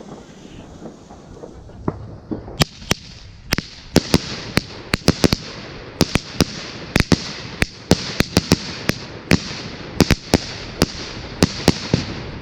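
Small salute fireworks battery firing its shots: an irregular string of sharp bangs, about two to three a second, with a hiss between them, starting about two seconds in and stopping near the end.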